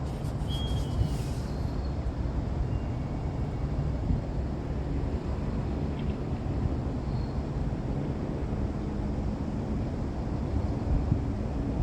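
Steady low rumble of wind buffeting the microphone, with a few faint short high chirps.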